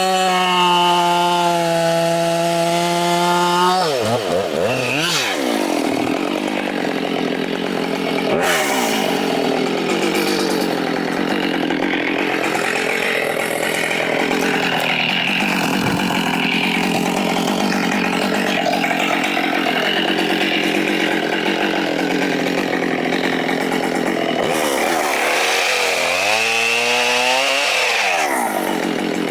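Husqvarna 572 XP two-stroke chainsaw held at high revs, then dropping in pitch as it bites into a dead oak trunk and cutting under load with a wavering engine note. Near the end it revs back up out of the cut and falls away.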